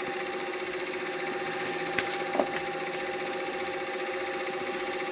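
Midi lathe running steadily, a constant motor hum with a few steady tones, with two light ticks a little past two seconds in.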